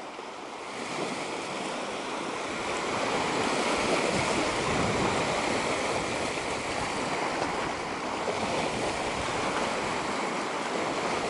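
Steady rushing of wind and water, growing a little louder over the first couple of seconds and then holding.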